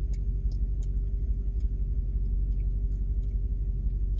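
A vehicle's engine idling, heard from inside the cab as a steady low rumble with a faint even hum above it.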